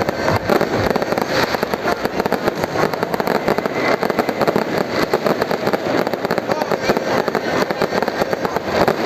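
Fireworks going off in a dense, unbroken barrage of rapid crackling bangs.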